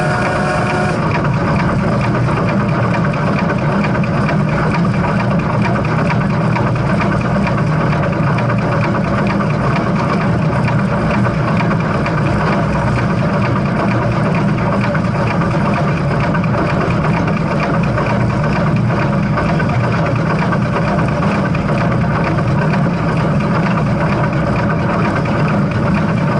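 Steam train running, a steady rumbling noise that holds even throughout, with no whistle.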